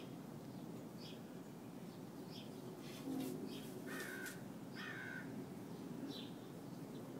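Birds calling outdoors over a steady low background hum: a short high chirp repeats about every second and a quarter, and two harsher, longer calls come about four and five seconds in.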